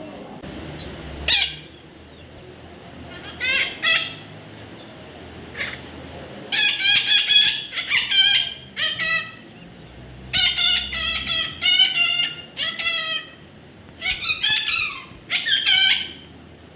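Parrot calling: a few single calls, then from about six seconds in, runs of quick, wavering calls in clusters.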